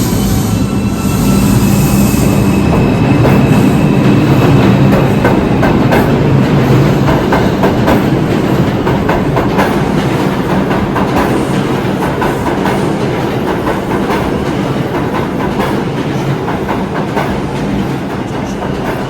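New York City subway train running through the station, its wheels clattering over rail joints with a faint wheel squeal in the first few seconds. The noise eases off toward the end.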